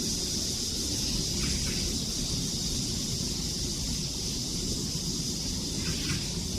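Cicadas singing in a steady, unbroken high-pitched chorus over a low rumble, with two brief faint chirps, one about a second and a half in and one near the end.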